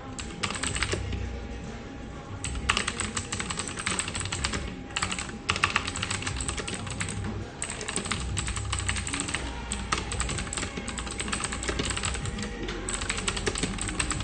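Fast typing on a computer keyboard: rapid runs of key clicks in spurts with short pauses between them. Underneath are a steady faint tone and a low background hum.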